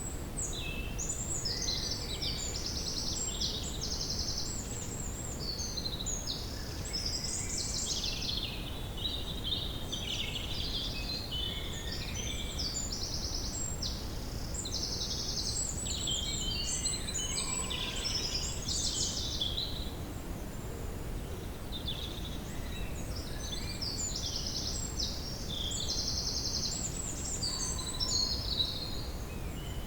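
Woodland songbirds singing in long bouts of intricate phrases and rapid trills, with short pauses between bouts, over a steady low background rumble of outdoor ambience.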